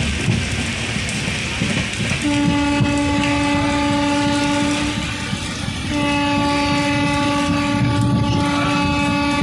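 Train horn sounded in two long blasts, each about three seconds, with a short gap between. Under it is the steady rumble of the moving train.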